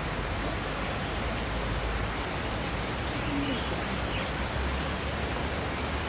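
Two short, high bird chirps, one about a second in and a louder one near the end, over a steady background hiss of outdoor ambience.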